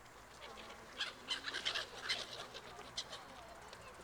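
A flock of birds calling: a quick, dense run of short, sharp high calls starting about a second in and thinning out after about two seconds.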